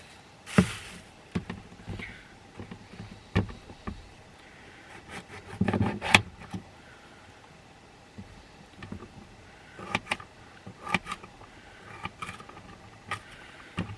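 Food-prep handling sounds: scattered clicks and knocks with a short rustle near the start and a louder cluster of knocks about six seconds in, as a green pepper and knife are picked up for chopping.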